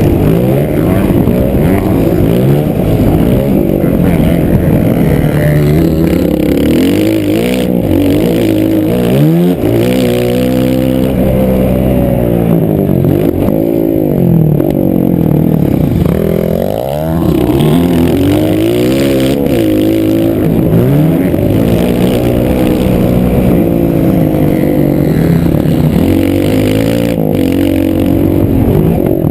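Motocross bike engine at hard throttle on a dirt track, its pitch sweeping up and dropping back again and again as the rider accelerates and shifts. The engine eases off briefly a little past halfway, then climbs again.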